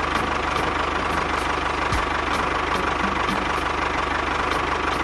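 An engine idling steadily just after starting, with a fast, even low pulse and faint regular ticks.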